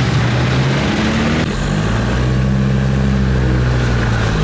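A vehicle engine running steadily, with a lower hum coming in about a second and a half in.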